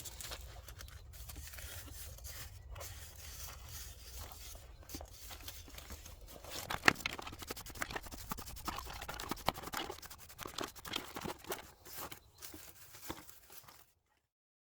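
Old powder coat, softened by stripper, being scraped off a metal part: a run of scrapes and small clicks that grows busier and louder about halfway through, then cuts off suddenly.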